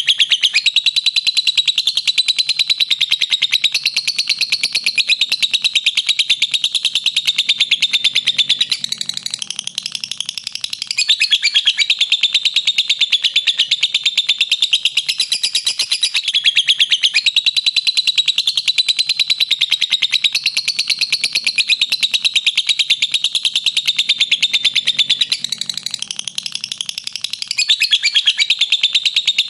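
Lovebird singing its long, rapid, shrill chattering trill (ngekek), run on without a break, easing off briefly about nine seconds in and again a few seconds before the end.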